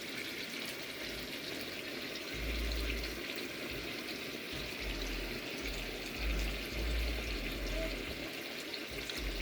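Chicken pieces frying in hot oil in a pot, a steady sizzle, with a few low rumbles.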